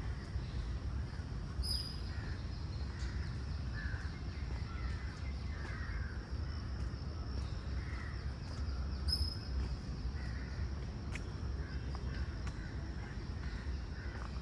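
Crows cawing repeatedly over a steady low rumble, with a short high bird chirp about two seconds in and again about nine seconds in.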